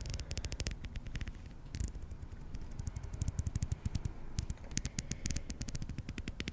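Close-up ASMR crackling and scratching right at the microphone: quick clusters of sharp little clicks over a low rumble, coming and going in short runs.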